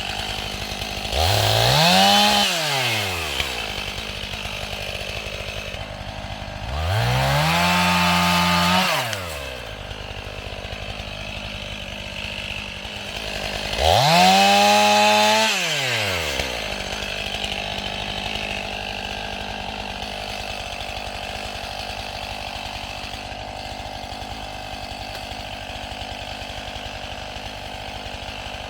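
Chainsaw engine idling steadily and revved up three times. Each time the pitch climbs and falls back to idle.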